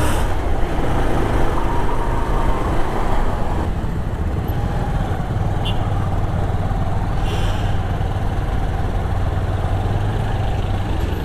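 Motorcycle running steadily while riding through city traffic, its engine rumble mixed with road and traffic noise and wind on the helmet-mounted microphone.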